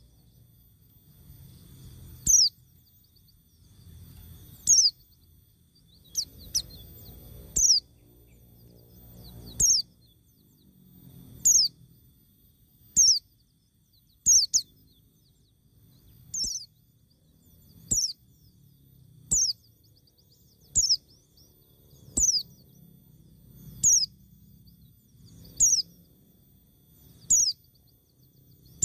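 A bird repeating one short, high call that sweeps quickly downward, about once every one and a half to two seconds.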